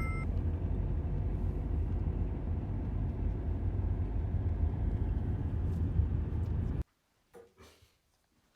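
Steady low rumble of a car driving, road and engine noise heard inside the cabin, which cuts off suddenly about seven seconds in.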